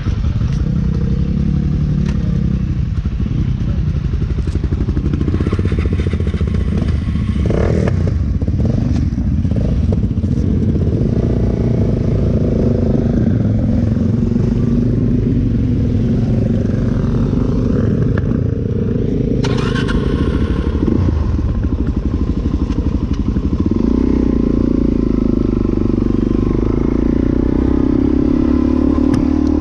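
Suzuki DR-Z400's single-cylinder four-stroke engine running at idle, with a few sharp clicks and knocks along the way. Near the end the engine note steps up as the bike moves off.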